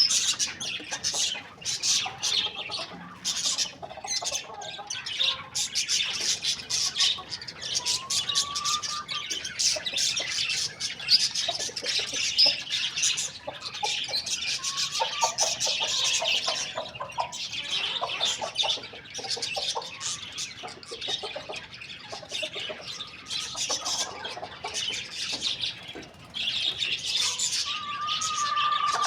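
Many small birds chirping continuously in a dense, busy chatter, with chickens calling now and then underneath.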